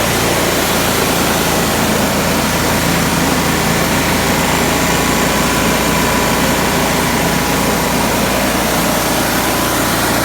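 Coffee huller driven by a Honda GX160 single-cylinder four-stroke petrol engine, running steadily at an even speed.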